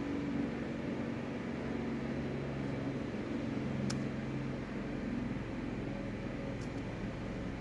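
Electric engine cooling fan of a Mercedes W222 S350 running steadily, commanded on through the diagnostic tool in an actuation test. It makes an even whir over a low hum.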